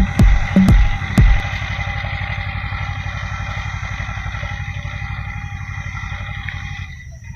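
Swaraj 724 FE tractor's diesel engine running steadily. A music track's heavy bass beat sits over it for the first second or so.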